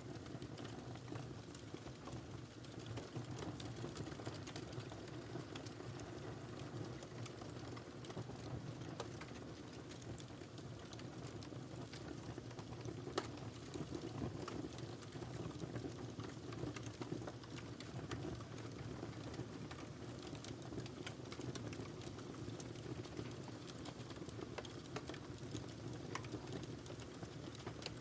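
Wood fire crackling in a fireplace: a steady low rumble of burning with scattered small pops and snaps throughout, and one louder pop about halfway through.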